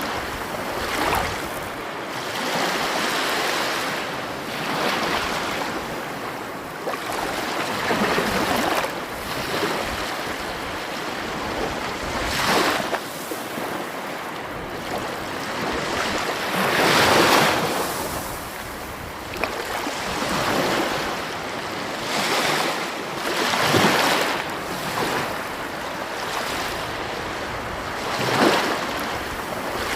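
Sea waves washing in on the shore: a continuous rush of surf that swells and falls back every few seconds, with one larger wave about halfway through.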